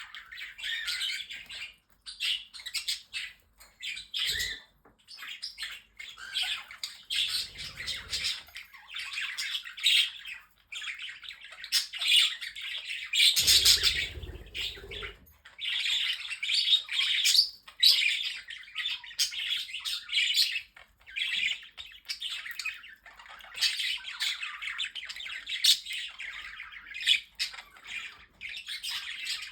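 A mixed flock of pet budgerigars, parrotlets and cockatiels chattering and squawking, a busy, continuous mix of chirps, warbles and squawks. Twice a brief low rumble sounds under the chatter; the second, about halfway through, is the louder.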